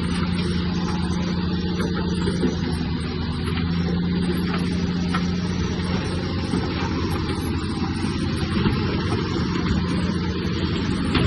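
Heavy diesel engine of earthmoving machinery running steadily, with a few light knocks.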